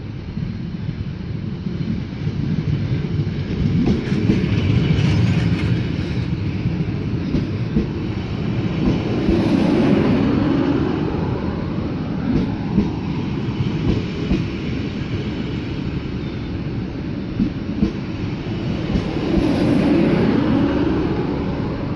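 Nord-Ostsee-Bahn passenger train rolling in along the platform, its coaches' wheels rumbling on the rails close by. The noise swells several times as the cars pass, loudest about ten seconds in and again near the end.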